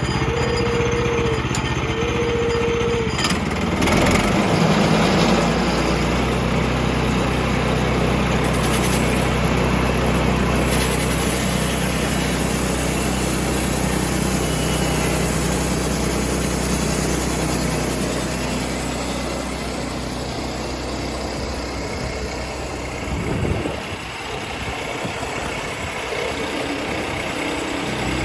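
An engine running steadily, with a knock and a change in its note about four seconds in, and dropping lower near the end.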